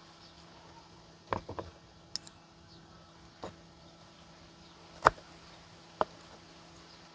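A small knife cutting through a KitKat chocolate-coated wafer bar, making a handful of separate short, crisp cracks with pauses between them, the sharpest about five seconds in.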